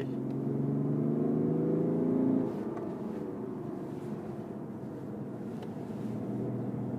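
BMW 530d's three-litre straight-six diesel accelerating hard in Sport mode, heard from inside the cabin: the engine note climbs and grows louder for about two and a half seconds, then drops suddenly and settles into a lower, steady tone.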